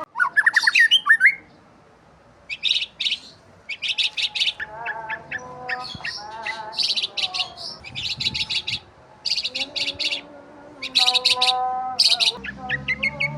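Several small birds chirping and singing: repeated bursts of rapid, high-pitched trills, with lower, longer warbling calls between them.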